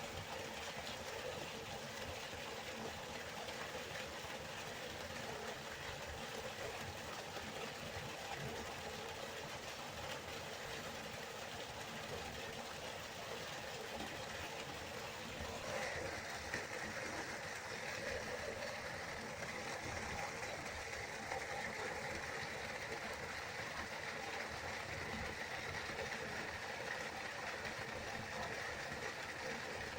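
Steady rush of flowing river water, even and unbroken; about halfway through it turns a little brighter and hissier.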